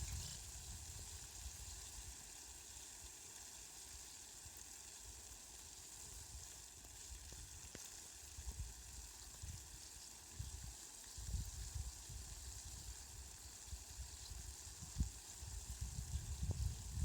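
Rain falling in a steady, fine hiss, with a few scattered drip ticks. Low rumbling swells come and go, around the middle and again near the end.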